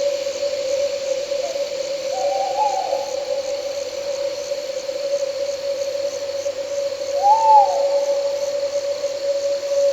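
An owl hooting twice, a short wavering call about two seconds in and a louder rising-and-falling call about seven seconds in, over steadily chirping crickets and a continuous low drone.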